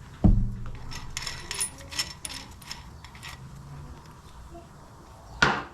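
Steel parts of a cam bearing puller clinking and tapping as the tool is handled and fitted: one solid metallic knock just after the start, a run of light clicks, and a sharp click near the end.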